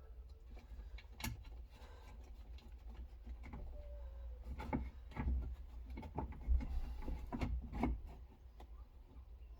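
Scattered clicks, knocks and rubbing from hand work on a car door's window regulator and motor, busiest from about four and a half to eight seconds in, over a low steady rumble.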